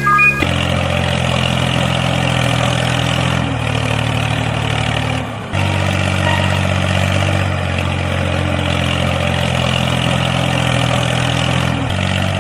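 Engine-like running sound idling steadily with a low hum, briefly dropping out about five seconds in.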